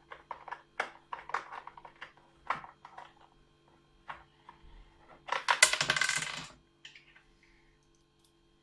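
Small metal tools being handled: a run of light clicks and taps, then a jingling metallic rattle for about a second and a half just past the middle, like a screwdriver bit and screws shaken among metal parts.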